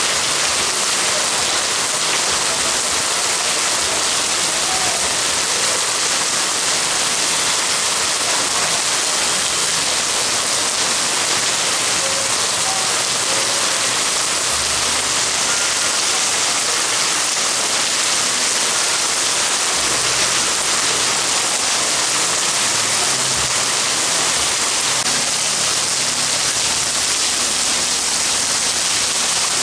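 Heavy rain pouring down, a dense, even hiss of falling water that never lets up. A few low rumbles sound under it in the second half.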